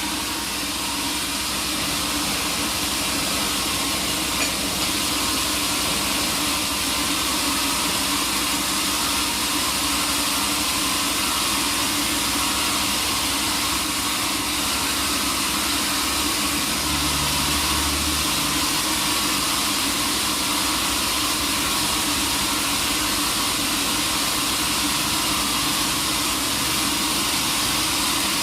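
Sawmill machinery running steadily, an even mechanical drone and hiss, with a short low rumble about two-thirds of the way through.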